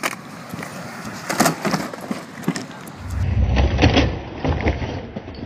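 Skateboard deck and wheels clacking and knocking on concrete, with strong wind buffeting the microphone in a low rumble from about three seconds in.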